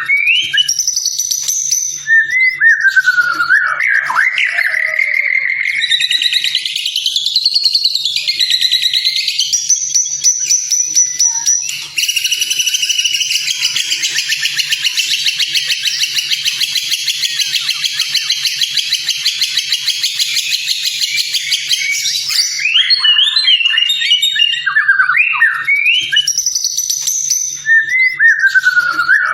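White-rumped shama (murai batu) song: loud, varied whistled phrases that glide up and down, broken by a long, dense, rapid trill lasting about ten seconds in the middle, then more whistled phrases near the end.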